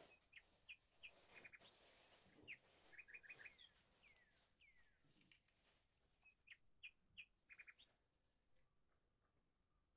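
Faint small birds chirping in the background: short high chirps, some in quick runs of three, and a few falling whistles. Over the first few seconds there is a soft patter of canned corn kernels tumbling into a plastic mixing bowl.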